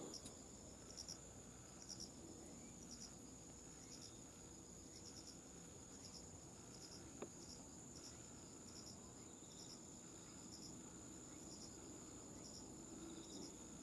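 Near silence: faint cricket chirping about once a second over a steady high-pitched tone, with a single faint click about halfway through.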